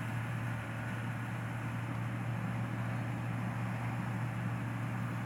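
An engine running steadily at constant speed, with a steady low hum and no change in pitch.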